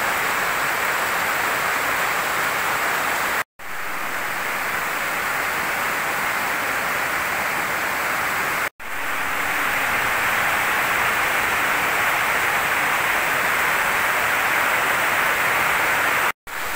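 Heavy tropical rain pouring down, a steady loud hiss, cut off briefly twice.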